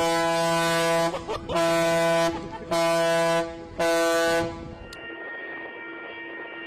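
A boat's horn sounding four blasts in quick succession, each just under a second long. About five seconds in it gives way to a quieter steady hum.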